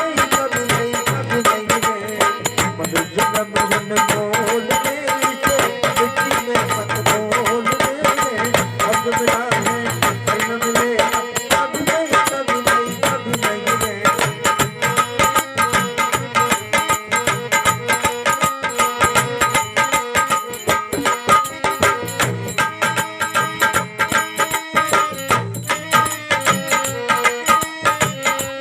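Instrumental interlude of a folk bhajan: a dholak played in a fast, steady rhythm under sustained melody notes.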